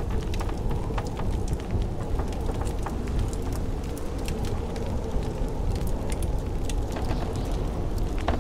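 Fireplace wood fire crackling, with irregular sharp pops, over a steady low rush of blizzard wind.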